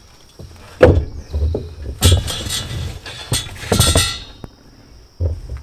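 Salvaged wood being handled with a compact tractor's bucket and thumb: a sharp knock, then two bursts of clattering as boards and timber knock together and against the steel attachment.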